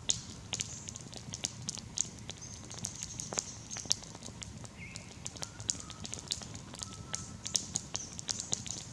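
Campfire crackling, with many small irregular snaps and pops.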